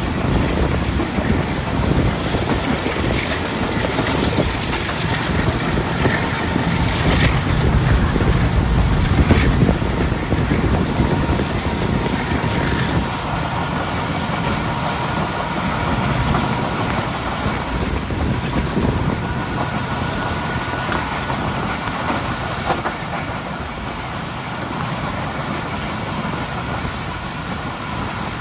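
Passenger train running along the track, heard from an open coach window: a steady rumble of wheels on rails with a few sharper knocks about seven and nine seconds in, easing off slightly near the end.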